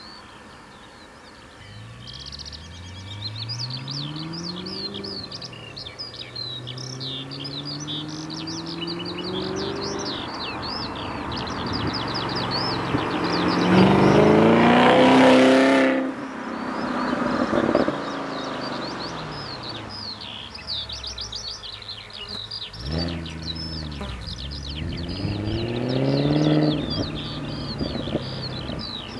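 BMW E39 540i's V8 through a valved flap exhaust, accelerating again and again with a rising engine note. It is loudest about halfway through, then drops off suddenly and picks up again in shorter rises near the end. Birds chirp throughout.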